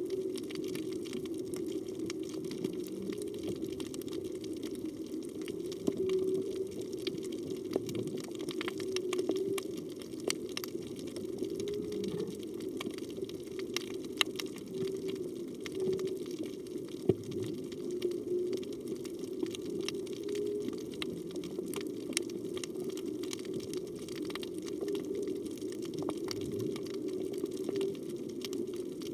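Underwater reef ambience: a steady low rush of moving water with a dense crackle of tiny clicks throughout.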